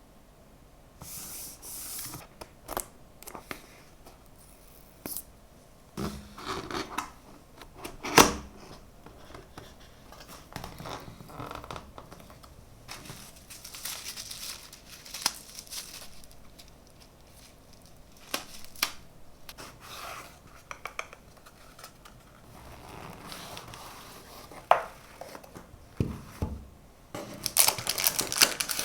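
Packaging being opened and handled by hand: intermittent tearing and crinkling of wrapping and cardboard, with scattered clicks and knocks, the sharpest about eight seconds in.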